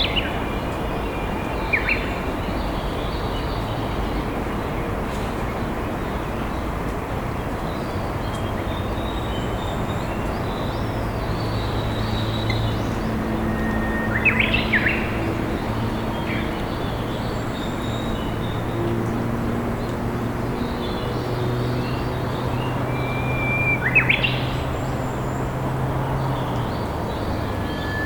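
A river flowing steadily, with wild birds singing over it: a short phrase roughly every ten seconds, each a held whistle that breaks into quick rising notes. A faint low hum runs underneath through the middle.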